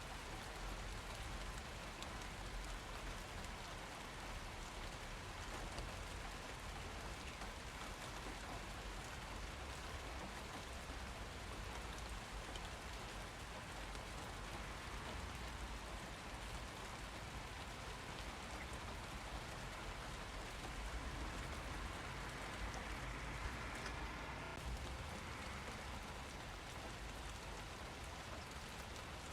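Steady rain falling, an even hiss of many drops hitting surfaces, growing a little louder about three-quarters of the way through.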